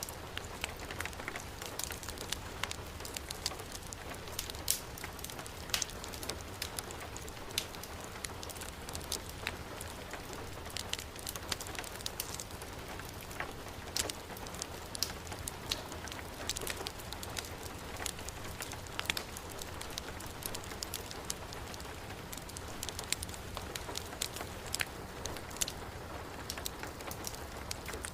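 Heavy rain falling with a steady hiss, mixed with a crackling wood fire: frequent short, sharp crackles and pops stand out all through.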